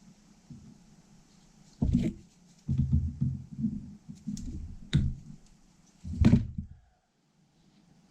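Metal parts and hand tools of a starter being handled during a rebuild: several dull knocks and clunks with a few sharp clicks, in about four separate bursts.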